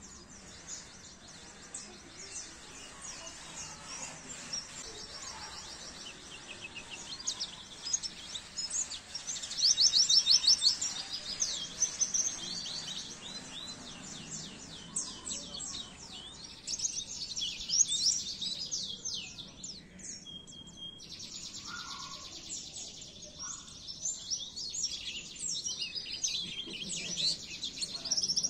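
High-pitched, rapid twittering song of a pleci (white-eye), made of fast trills of chirps. It is loudest about ten seconds in, again around eighteen seconds, and near the end.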